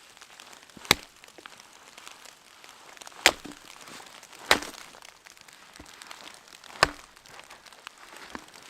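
Four sharp knocks at uneven intervals of one to two and a half seconds, with faint crackling between them.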